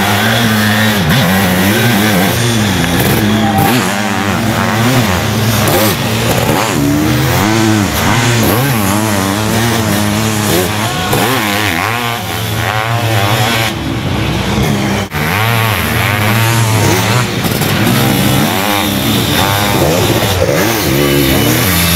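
Sidecar motocross outfits racing: their motorcycle engines revving up and down as they accelerate through the sand, several machines overlapping over a steadier lower engine drone.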